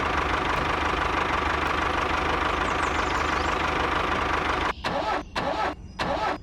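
A small motor running steadily with a thin whine. About three-quarters of the way through it breaks off into several short bursts with gaps between them.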